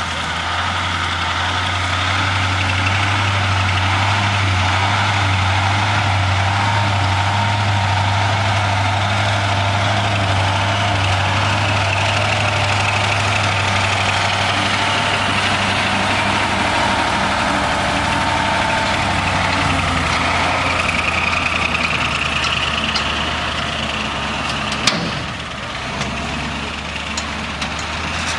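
KrAZ-255B 6x6 truck's V8 diesel engine running steadily, with a whine that rises and falls over it. A single sharp knock comes near the end, when the sound briefly drops.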